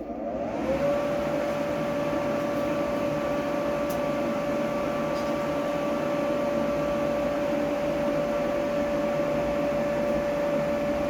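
Forge blower switched on: a motor whine that rises to a steady pitch within the first second, over a steady rush of air.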